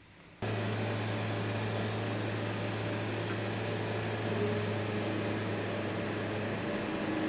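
An electric power tool switched on about half a second in, its motor then running steadily with a strong low hum under an even hiss.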